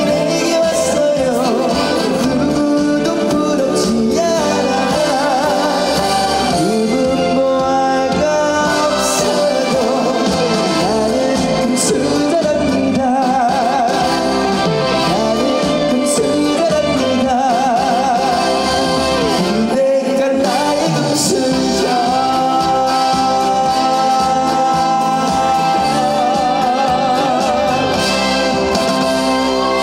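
A man singing a Korean song live into a microphone over instrumental accompaniment, his held notes wavering with vibrato, ending on one long held note.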